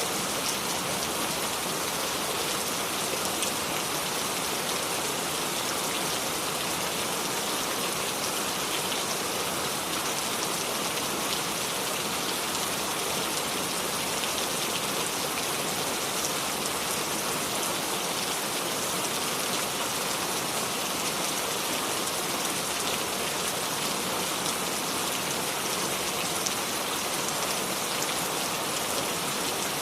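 Steady rain falling, with a dense even hiss and scattered drops ticking on a surface; no thunder.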